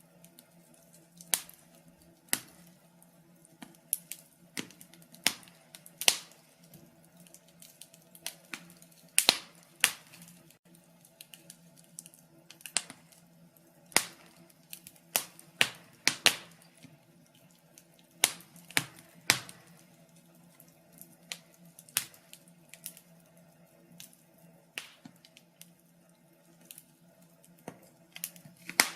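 Wood fire in a fireplace crackling: irregular sharp pops and snaps, one or two loud ones a second with smaller ticks between, over a faint steady low hum.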